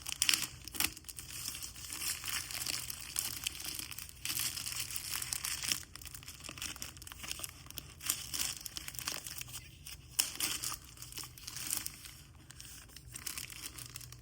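Packaging of an Anker 737 power bank being unwrapped: irregular crinkling and crackling with some tearing, in uneven bursts that stop abruptly at the end.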